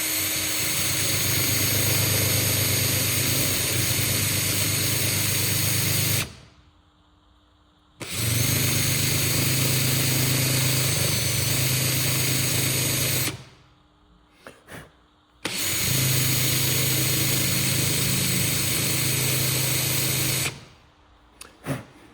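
An electric power tool, likely a drill, runs in three stretches of about six, five and five seconds, stopping briefly between them, with a couple of small clicks in the pauses.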